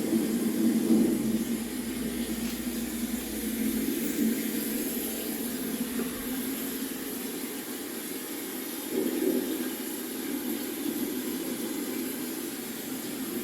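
Recorded storm sounds played back: a steady rain-like rushing hiss with a low rumble that swells briefly about nine seconds in.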